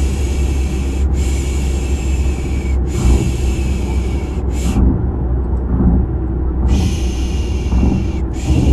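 Steady low rumble of a car engine and road noise heard from inside, with a soothing 'psh psh' shushing sound repeated over it in hissing pulses of about a second each. The shushing pauses for a second or two midway, then resumes.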